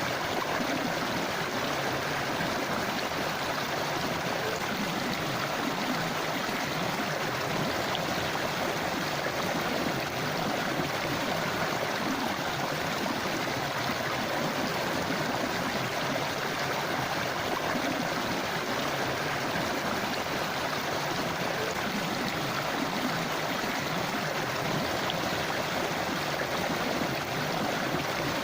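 River water flowing over rocks in a steady rush.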